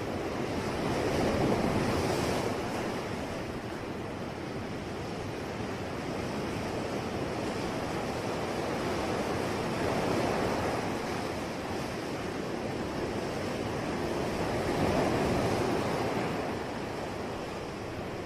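Ocean waves washing onto the shore: a steady rush of surf that swells as each wave breaks, three times, roughly every five to six seconds.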